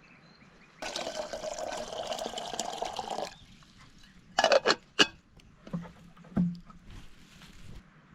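Liquid pouring for about two and a half seconds, then a few sharp knocks and a couple of duller thuds.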